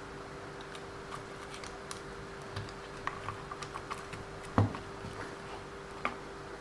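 Light clicks and taps of small plastic and metal RC car parts and tools being handled at a workbench, with a louder knock about halfway through and another near the end, over a steady faint hum.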